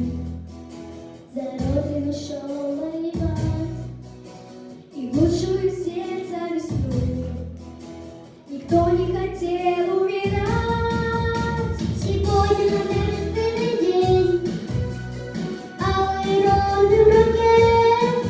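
Children's vocal ensemble singing a song over instrumental accompaniment, holding long notes in the second half.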